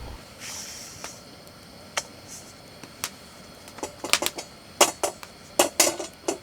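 Metal tableware clinking and clattering: a few single clicks, then a quick run of sharp clinks in the last couple of seconds, with a short hiss about half a second in.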